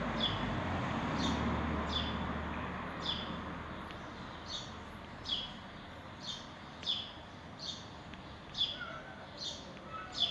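A small bird calling repeatedly: short, high chirps that slide downward, about once or twice a second, over a rushing background noise that eases after the first few seconds.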